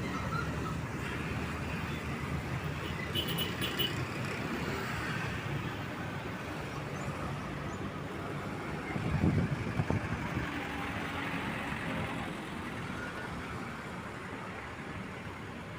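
Road traffic with vehicle engines running steadily, and a louder low engine swell about nine seconds in.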